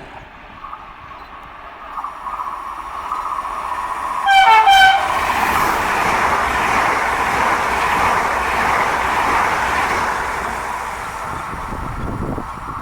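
A train passing through the station at speed. It sounds a short horn blast about four seconds in, which is the loudest moment, and then the rush and rumble of the passing cars swell and fade away.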